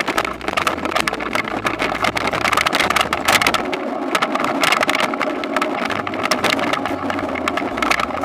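Toyonoki potato harvesting machine running: a steady engine with constant dense clattering and rattling.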